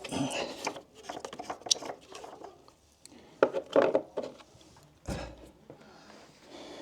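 Scattered metallic clinks and short clatters of hand tools being handled, with a duller knock about five seconds in.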